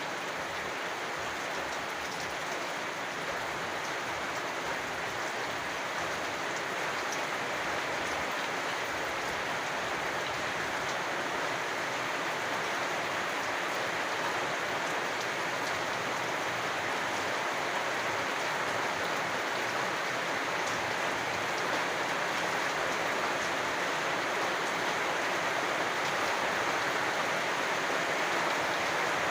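Steady rain falling, an even hiss of drops that grows a little louder toward the end.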